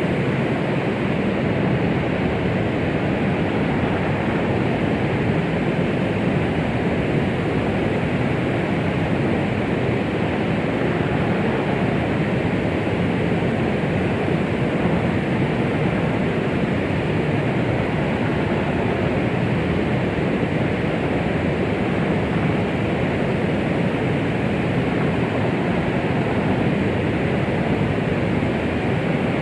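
Steady synthetic noise with most of its energy in the low and middle range and little in the highs, like pink or brown noise, unchanging throughout: white noise played as a womb-like sound to soothe a baby.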